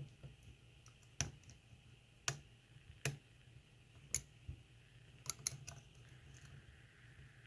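Faint, irregular metallic clicks of a lock pick probing the pins of a Daz Evers high-security lock held in a false set. Single clicks come every second or so, with a quick run of three a little past halfway.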